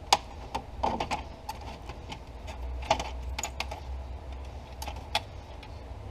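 Irregular light clicks and taps of hard plastic steering-column trim and parts being handled and pried at, over a steady low hum.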